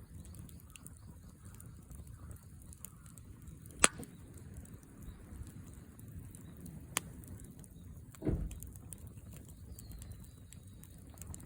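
Wood fire burning in a fire pit over a low steady rumble, with a sharp pop about four seconds in, a smaller pop around seven seconds, and a duller thump a little after eight seconds.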